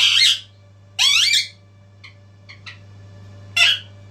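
Pet parrot giving three shrill calls: one at the start, one about a second in, and a harsher one near the end, with a few faint ticks between.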